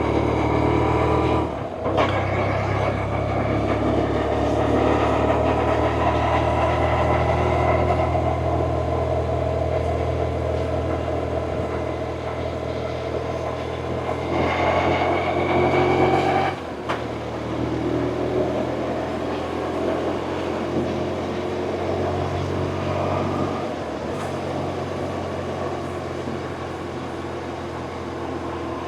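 BMW R1100RT's boxer-twin engine running under way, a steady engine note with two brief breaks, about 2 seconds in and about 17 seconds in.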